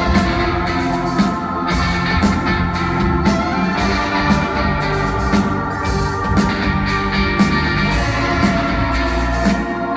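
Live rock band playing an instrumental passage, organ to the fore over a steady beat.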